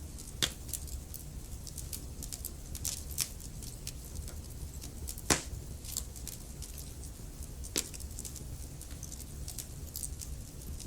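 Wood fire burning in a fireplace: a steady low rumble of flames with scattered crackles and sharp pops. The loudest pops come about half a second in, about five seconds in, and near eight seconds.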